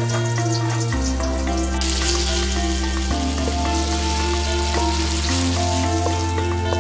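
Chili paste sizzling in hot oil in a wok as it is stirred with a wooden spatula. The sizzle gets louder from about two seconds in. Background music plays under it.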